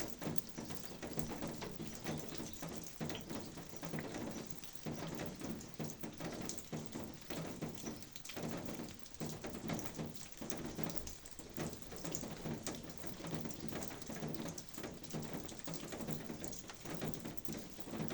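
Rain falling steadily, many separate drops ticking on surfaces.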